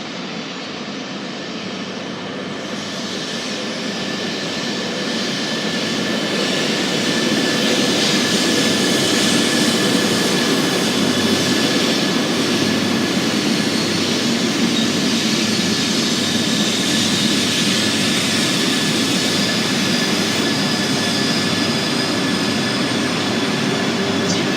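E3-series Shinkansen train pulling into the station: a rushing rumble that grows louder over the first several seconds and then holds steady, with a faint thin whine running through it.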